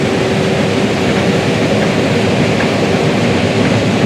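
Case IH 8250 Axial-Flow combine running steadily under load while harvesting corn, a constant mechanical noise with a faint steady hum.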